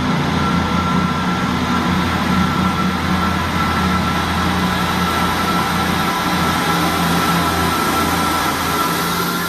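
A large diesel vehicle engine running steadily with a low hum, with a thin steady whine above it.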